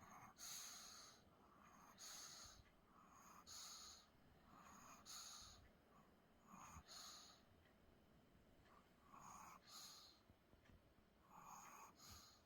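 Maltese puppy snoring softly in its sleep: seven faint breaths, one every one and a half to two and a half seconds.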